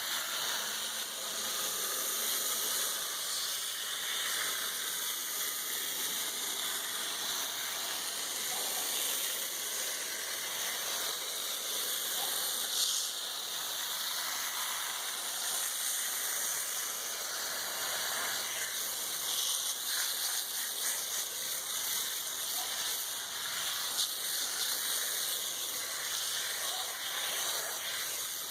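Water spraying steadily from a hose against an air conditioner's coil fins, rinsing off foaming coil cleaner, as a continuous hiss that starts and stops abruptly.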